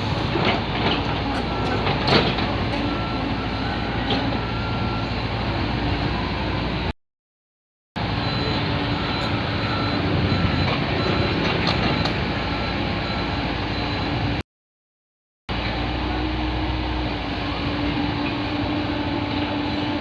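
Steady running noise of construction machinery, an excavator or dump truck engine working, with faint intermittent beeping and a few clicks. The sound cuts to silence twice, for about a second each time.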